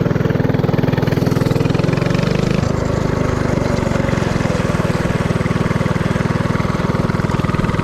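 Predator 224cc single-cylinder four-stroke engine of a mini-bike running under way, a steady rapid pulse of exhaust beats; its note shifts about two and a half seconds in.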